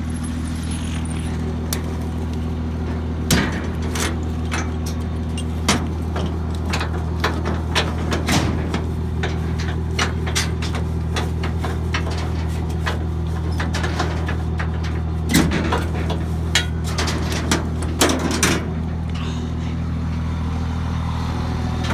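Vehicle engine idling steadily, with a run of sharp clanks and knocks from about three seconds in until near the end.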